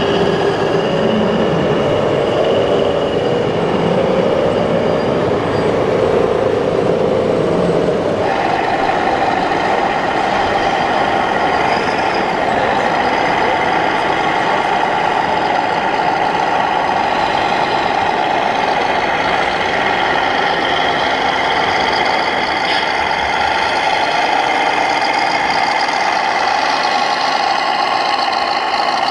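Engine sound of 1/14 scale RC trucks, diesel-truck sound played through the models' electronic sound modules. The engine note steps up sharply about eight seconds in, as if revved under load, then holds steady.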